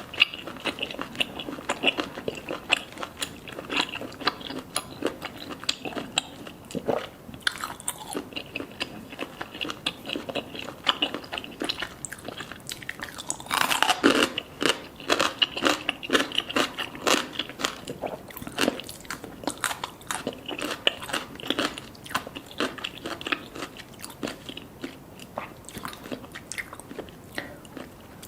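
Someone biting and chewing crunchy food, a continuous run of close crunches and crackles.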